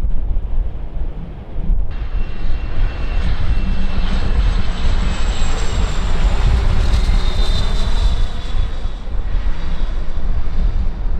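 Airliner's engines passing: the sound swells from about two seconds in with a high whine over the rush, is loudest around the middle and fades near the end. Wind buffets the microphone throughout.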